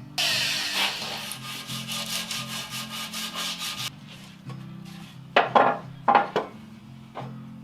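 Edge of a hardwood bench slat being sanded to round it over: a dense, rapid scraping for about four seconds that then stops. A few sharp wooden knocks follow a little after five seconds in, with quiet background music underneath.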